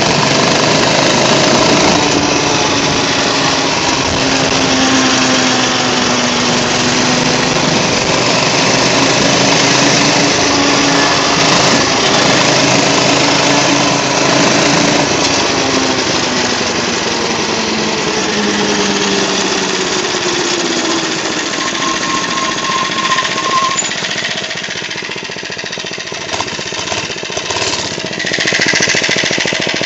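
Baja Racer 97 cc four-stroke mini bike engine running as the bike is ridden, its pitch rising and falling with the throttle. It drops to a lower, quieter run near the end.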